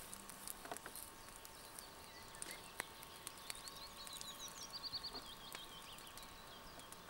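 A small songbird singing a quick run of high chirps about halfway through, faint over quiet riverside ambience with a few light clicks.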